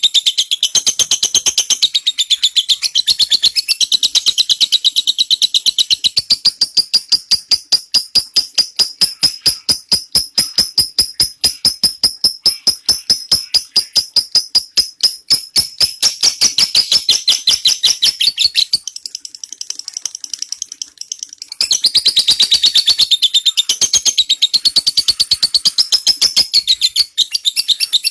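Lovebird giving a long ngekek: a fast, unbroken run of high, shrill chattering notes that falters briefly about two-thirds of the way through, then starts again.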